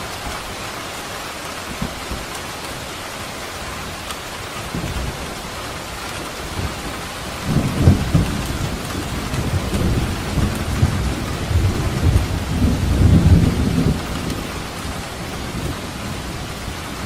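Steady rain falling, with a roll of thunder rumbling in about seven seconds in, swelling twice and dying away near the end.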